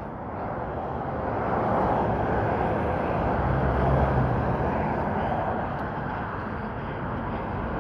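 Road traffic noise: a motor vehicle passing, its engine hum and tyre noise swelling through the middle and easing off.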